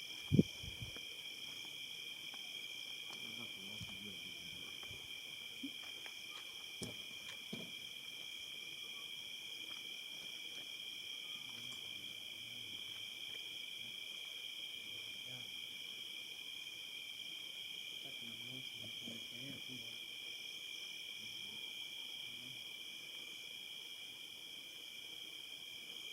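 Steady, unbroken chorus of insects chirring at dusk, crickets or similar, in a couple of high even pitches. A single sharp knock comes about half a second in.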